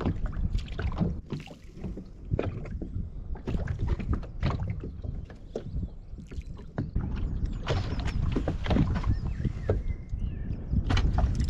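Irregular knocks, clicks and rattles of handling in a small rotomoulded plastic boat, over a steady low rumble.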